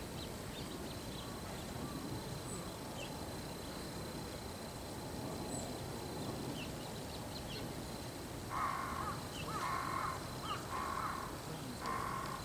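Four loud, harsh bird calls in quick succession, starting about two-thirds of the way in, over steady outdoor background noise with faint high chirps of small birds.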